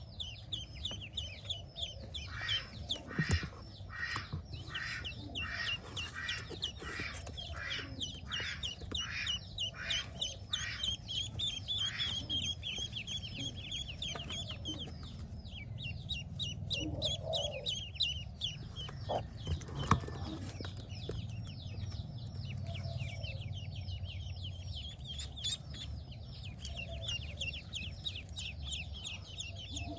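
Pekin ducklings peeping, a dense stream of short, high chirps. In the first half a run of louder calls comes evenly, about twice a second.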